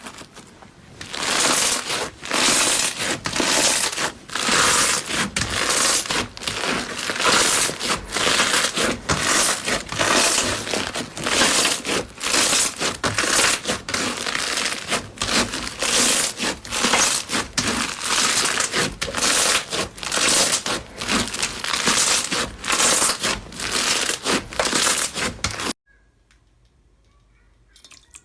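Slime being worked, with dense, continuous crackling and crinkling made of many quick pops. It cuts off suddenly near the end.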